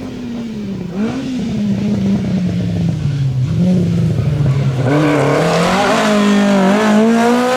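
Rally car engine running under load and getting louder as the car draws nearer. Its pitch falls through the first half, then climbs again with a short break about two-thirds of the way through, as at a gear change. It is loudest near the end.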